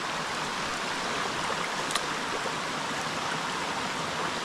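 Creek water running steadily, with one faint click about two seconds in.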